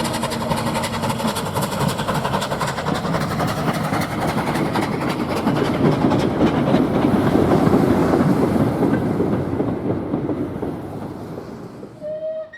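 Steam locomotive and train passing close by, with rapid exhaust beats and the clatter of wheels on rail joints, fading away in the last few seconds. A short whistle blast sounds near the end.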